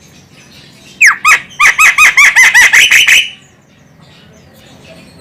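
Javan myna calling: a rapid run of about ten loud, arched call notes, roughly five a second, starting about a second in and lasting about two seconds.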